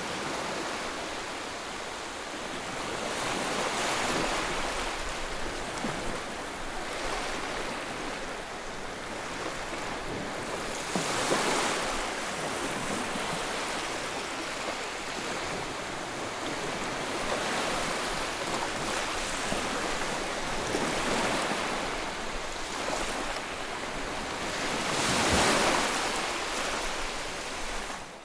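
Ocean surf: a steady wash of waves with slow swells as each wave breaks, the biggest about 11 and 25 seconds in.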